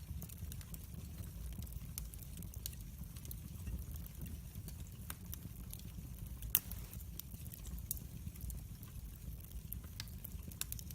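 Wood fire in a fireplace crackling: irregular sharp pops over a low steady rumble of the flames, with one louder pop about six and a half seconds in.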